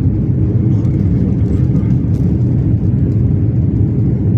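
Airliner engines and airflow heard from inside the passenger cabin during takeoff, a steady low rumble.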